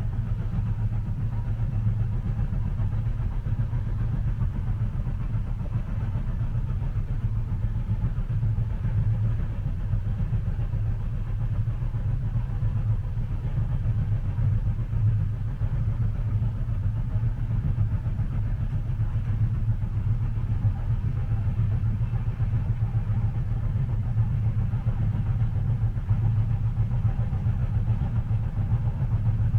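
Steady low rumble of a moving train as heard inside the passenger cabin, muffled, with no distinct clacks standing out.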